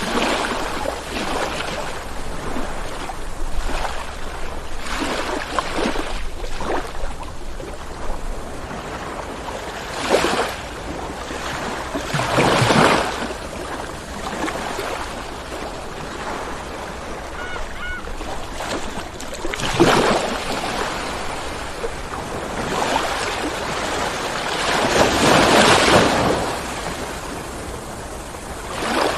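Ocean waves rolling in and washing on the shore, with a steady surf hiss and louder breaking surges at irregular intervals, the biggest about 12, 20 and 25 seconds in.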